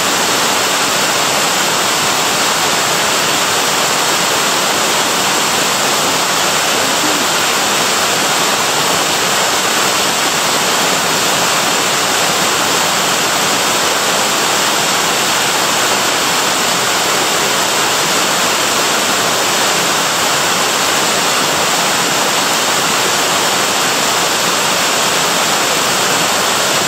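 Waterfall pouring, a loud steady rush of water that does not change.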